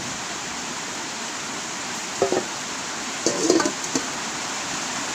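Steady hiss of heavy rain. Two brief louder sounds break through it, about two seconds in and again around three and a half seconds, the second with a few sharp clicks.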